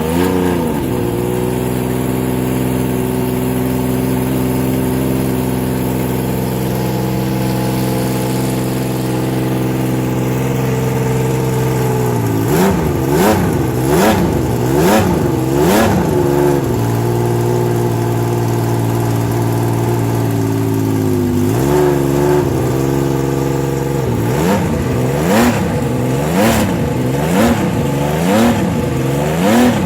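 Laverda V6 racing motorcycle engine idling steadily, then blipped four times in quick succession. It settles back to idle, and in the last few seconds it is revved repeatedly, about once a second.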